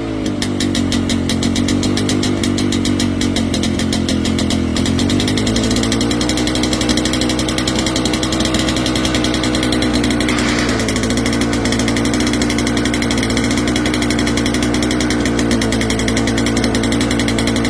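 Caterpillar D7 crawler tractor's diesel engine running with a low, persistent rumble at a steady speed, its pitch rising slightly about five seconds in.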